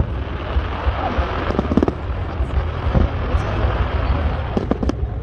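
Aerial fireworks shells bursting: several sharp bangs with crackle, clustered about two seconds in and again near the end, over a steady low rumble.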